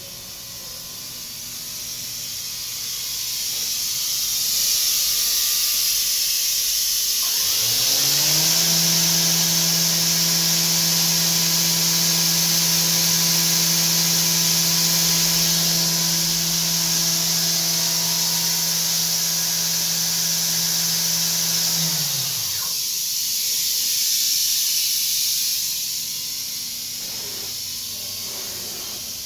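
Fanuc Robodrill a-D21L-iA5 vertical machining center running under power: a loud hiss, with the spindle's steady hum rising quickly about seven seconds in, holding speed, and winding down near the end of the run.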